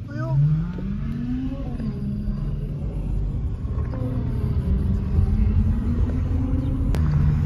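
A vehicle engine accelerates, its pitch rising over the first second and a half, then settles into a steady low engine and road rumble, heard from inside a moving car. There is a sharp click about seven seconds in.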